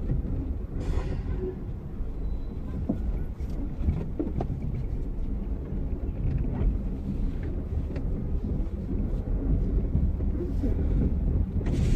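Car driving along a road, heard from inside the cabin: steady low road and engine rumble with scattered small knocks, and a brief hiss about a second in and again near the end.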